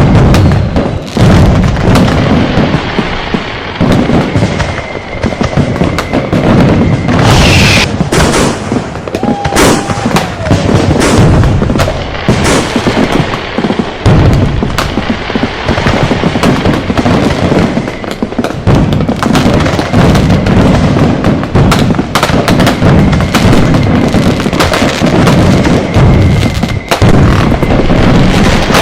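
Firecrackers and fireworks going off in a dense, continuous barrage of loud bangs and booms, one blast overlapping the next with no break.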